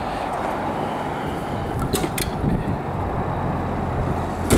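Steady low vehicle rumble, with a couple of sharp clicks about two seconds in and a thump at the very end.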